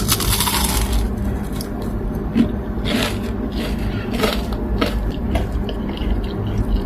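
A person biting into and chewing a crispy breadcrumb-coated carrot nugget: irregular crunches, the loudest at the first bite.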